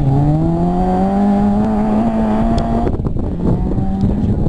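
Rally car engine accelerating hard past, its note climbing steadily for about three seconds. The note then breaks off and drops as the car changes gear and pulls away.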